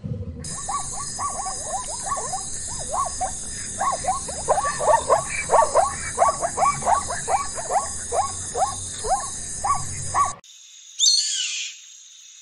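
A wild animal calling over and over in short calls, each falling in pitch, two to three a second, over a steady high hiss. About ten seconds in, the sound cuts off suddenly, followed by a single short, sharp downward call.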